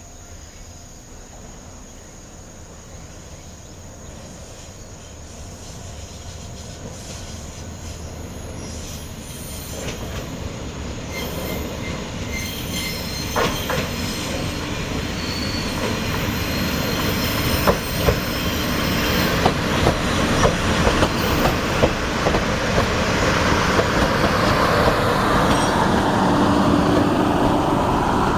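A train of old former JNR diesel railcars approaching, its sound growing steadily louder: the diesel engines' drone builds, and from about halfway in the wheels click sharply over the rail joints, more and more often as it nears.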